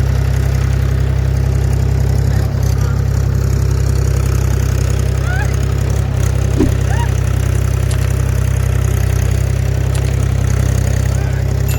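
Diesel engine running steadily at a constant speed, a loud low hum with no revving.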